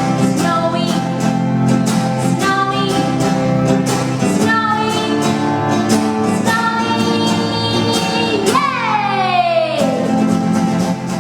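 A woman singing a children's song over instrumental backing with a steady beat. Near the end her voice slides down in a long falling note.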